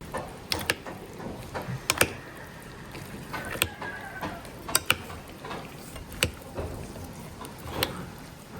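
A series of irregular sharp clicks and knocks, about one or two a second, from something being handled or worked by hand.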